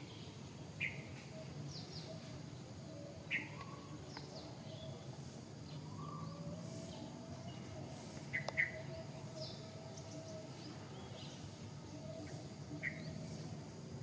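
Small birds chirping now and then, short separate calls scattered throughout, over a steady low background hum.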